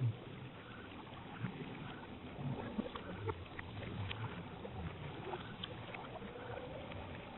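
Water lapping and splashing, as around a small boat or paddle, with a few light knocks and clicks scattered through.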